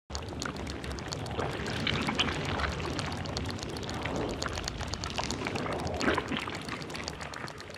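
Water pouring and splashing, a steady noisy rush with small crackling spatters, starting abruptly.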